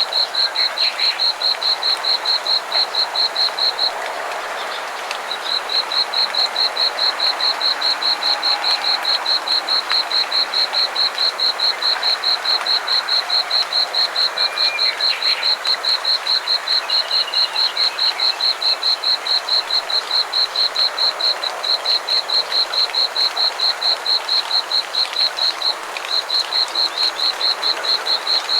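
A frog in a rice paddy calling in a fast, high-pitched pulsed trill of about four to five notes a second, pausing briefly twice, over a steady background din.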